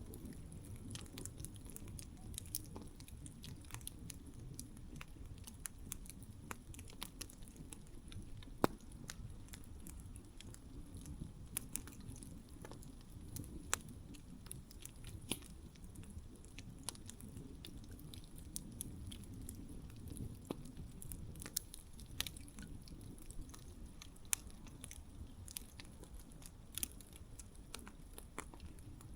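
Wood campfire burning, with a low steady rumble of flames and frequent irregular crackles and pops from the burning wood, one sharper pop about nine seconds in.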